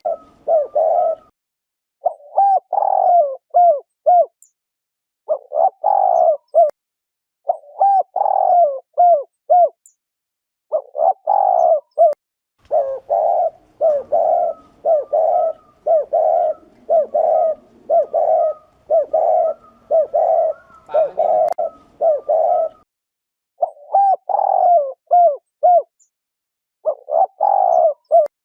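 Spotted dove cooing ('gù'): short, repeated coos in quick runs of three to six notes, broken by brief pauses, with a longer unbroken stretch of cooing in the middle. This is the bow-coo used as a lure sound to stir up male doves.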